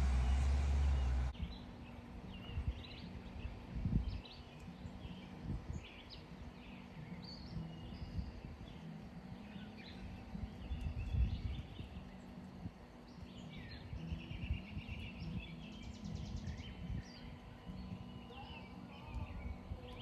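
Songbirds chirping and calling in short, scattered phrases and trills over a low rumble of wind on the microphone. A loud stretch of wind rumble in the first second or so cuts off suddenly.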